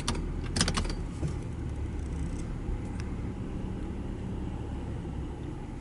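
Car engine running low and steady as the car creeps slowly forward, with a short run of sharp clicks in the first second.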